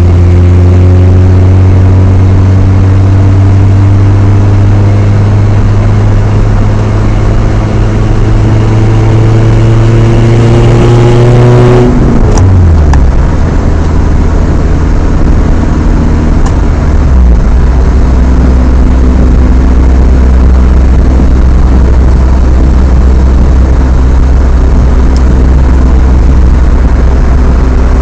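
Chevrolet S10's 2.2-litre four-cylinder through a Flowmaster 40 dual exhaust, heard from inside the cab under normal city driving. The engine pulls steadily with its pitch slowly rising for about twelve seconds, then drops sharply as the five-speed manual is shifted up. The pitch steps down once more a few seconds later and settles into an even cruise. The owner notes a slight exhaust leak near the stock manifold that may give a hissy, raspy edge.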